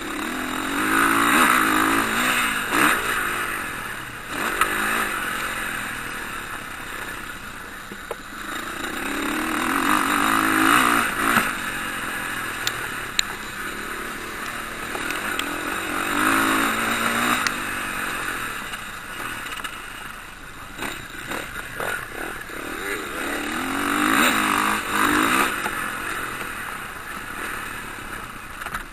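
Motocross bike engines revving hard and easing off as riders pass, the sound swelling and fading about four times.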